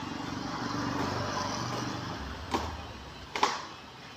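A steady low rumble of a running motor, then two sharp knocks about a second apart near the end, the second one louder.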